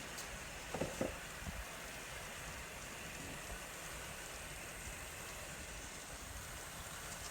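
Model train running along the layout track: a steady faint rushing noise, with a few quick clicks about a second in, like wheels crossing rail joints or a turnout.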